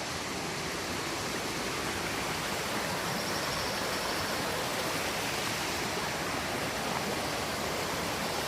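Steady rushing of a stream's flowing water, an even hiss that holds level throughout.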